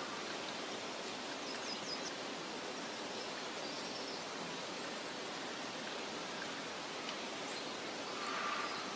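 Meadow ambience: a steady, even hiss of wind through vegetation, with a few faint bird chirps over it, including a quick run of four high chirps about two seconds in and a lower call near the end.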